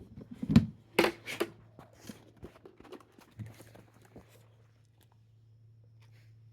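Several sharp knocks and crinkly rustles in the first second and a half, then scattered fainter clicks, over a steady low hum.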